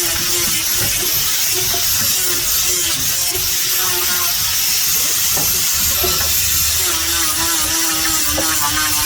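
A small electric power tool's motor running with a steady high whine and hiss; its pitch dips and holds as it takes the work.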